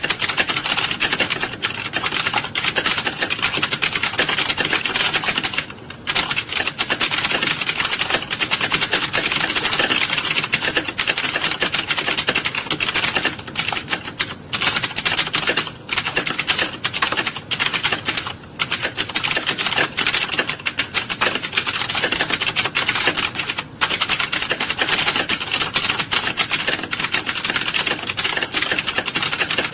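Many keyboards clattering at once as a class of typists types: a dense, continuous rattle of keystrokes with a few brief lulls.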